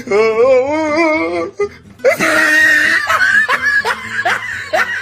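Edited-in comedy sound effect: a warbling voice-like tone for about a second and a half, then laughter in quick repeated short rising bursts, about three to four a second, over background music.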